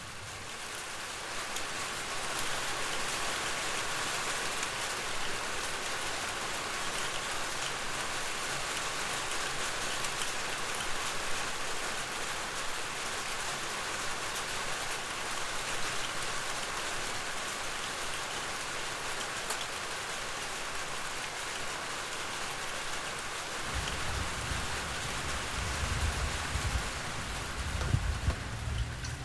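Steady rain: a dense even patter with many small ticks, fading in over the first couple of seconds. A low rumble joins it near the end.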